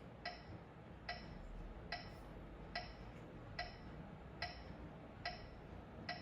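Metronome ticking steadily at a bit over one click a second, faint and even.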